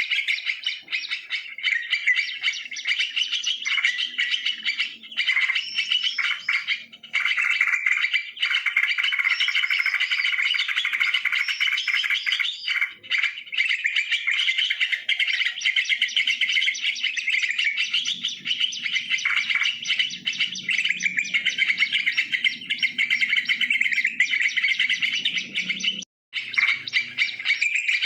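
Yellow-vented bulbuls calling, a dense run of quick chattering notes going on without a pause, cut by a sudden brief gap near the end.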